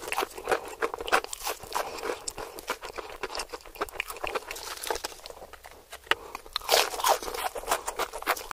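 Close-miked chewing of crispy fried chicken: dense, irregular crunching and crackling of the crust, with a run of louder crunches near the end.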